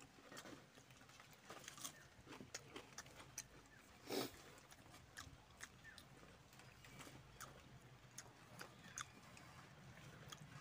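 Chewing and lip-smacking of a person eating rice and curry by hand: a scatter of faint, sharp clicks, with one louder smack about four seconds in.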